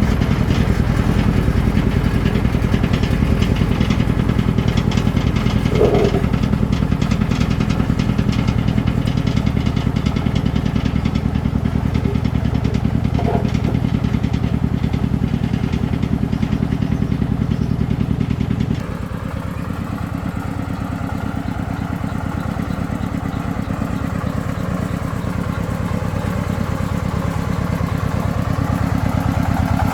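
Single-cylinder diesel engine of a công nông farm vehicle running steadily with an even thudding pulse, dropping to a slower, quieter speed about two-thirds of the way through.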